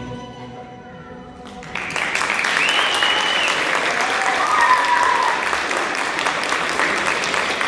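The last of the dance music fades out, and about a second and a half in, an audience breaks into steady applause with a few cheers.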